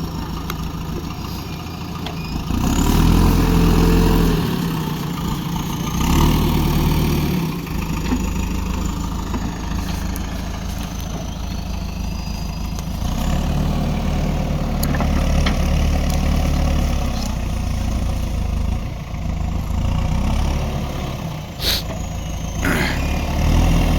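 JCB backhoe loader's diesel engine running steadily and revving up several times under load as it works. There are two sharp knocks near the end.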